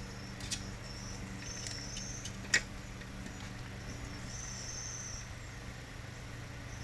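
Small metal parts and tools clicking during carburetor reassembly, with one sharp click about two and a half seconds in. Insects chirp on and off over a steady low hum.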